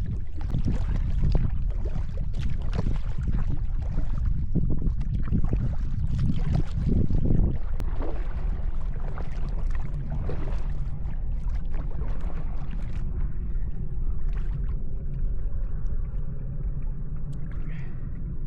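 Kayak paddle strokes dipping and splashing in the water with dripping and gurgling, over a steady low rumble of wind on the microphone; the splashes are busiest in the first half and thin out later.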